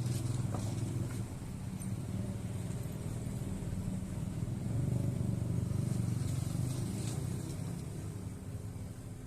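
A motor running with a steady low hum, swelling about halfway through and easing near the end.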